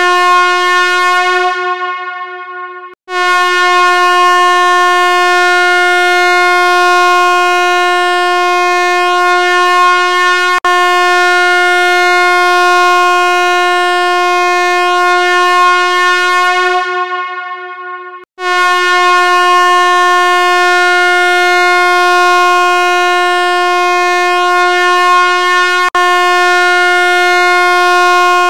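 A loud, steady, buzzy electronic tone held on one pitch, like a horn or siren note. It fades out about three seconds in and again about eighteen seconds in, each time starting again abruptly, with a slight click twice.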